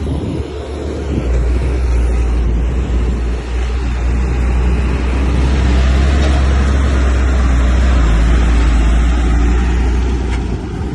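Heavy diesel engine of an earthmoving machine running hard under load. It gets louder about a second in and eases off near the end.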